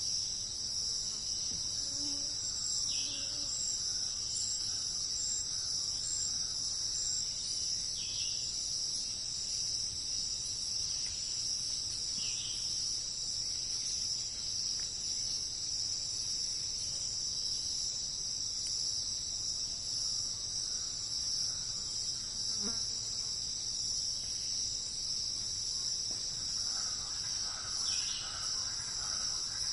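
Steady, high-pitched chorus of insects buzzing without a break, with a few brief downward chirps now and then.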